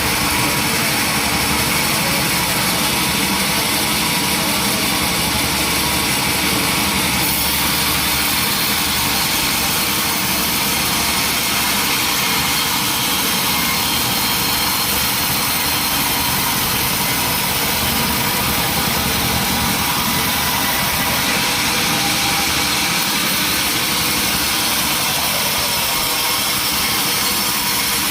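Sawmill machinery running steadily: a loud, constant mechanical din that holds level without breaks.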